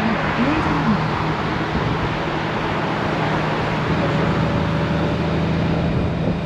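Honda GoldWing motorcycle under way: steady wind and road noise with a low, even engine hum.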